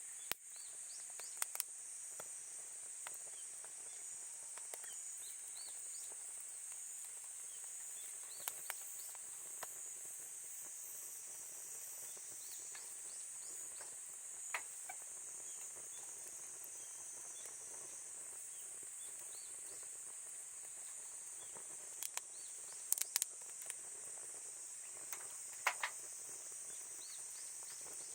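Wood campfire crackling with scattered sharp pops, several close together late on, over a steady high-pitched insect chorus.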